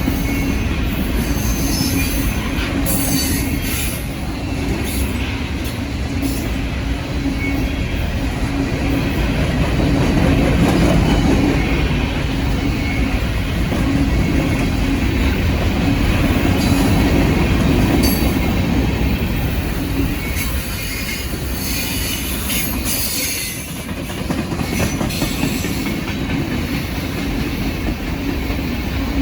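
Norfolk Southern freight train's cars rolling past at close range: a steady rumble of wheels on rail with clicks over the rail joints and intermittent high wheel squeal.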